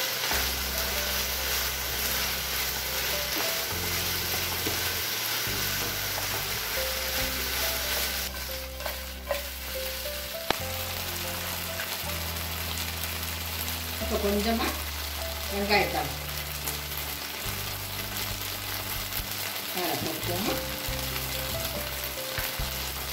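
Battered cauliflower florets frying and sizzling in a thick sauce in a nonstick pan over high heat, stirred with a spatula. A few sharper scrapes of the spatula against the pan stand out.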